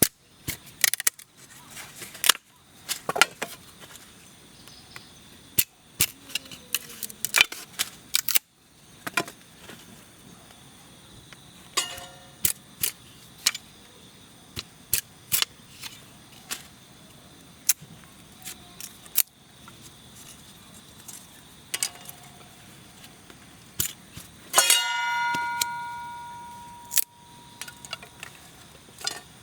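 Handling and setting up the parts of a titanium fire stand: many sharp clicks and clinks of light metal. About 25 seconds in, one louder strike sets a thin metal plate ringing with a clear tone that fades over about two seconds.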